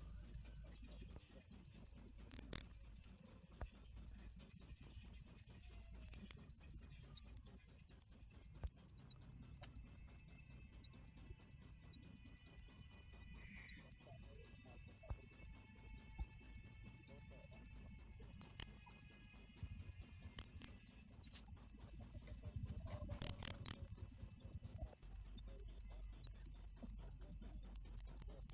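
Cricket chirping loudly in a steady, rapid rhythm of several high-pitched chirps a second, with one brief break about 25 seconds in.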